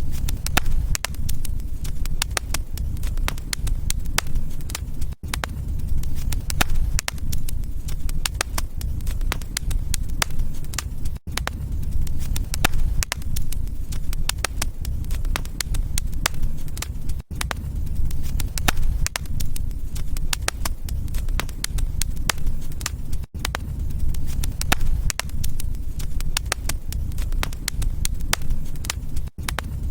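Wood fire in a fireplace crackling steadily, with many sharp pops and snaps over a low rumble of the flames. The sound dips out briefly about every six seconds.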